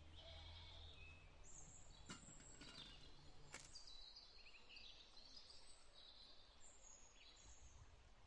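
Faint outdoor quiet with small birds chirping in short, high calls through the second half. Two sharp clicks come in the first half.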